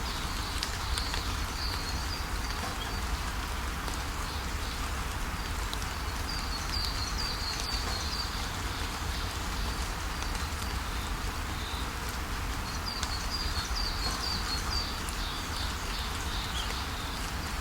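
Steady rain falling, with a songbird breaking in three times with quick runs of high chirps.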